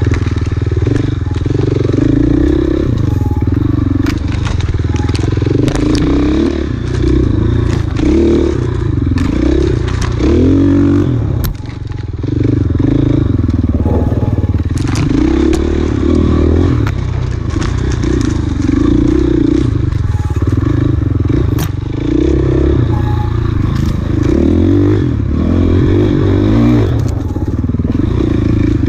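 Enduro dirt bike engine revving up and down continuously as it is ridden hard off-road, with frequent clattering knocks from the bike over rough ground. The throttle is briefly shut about eleven and a half seconds in.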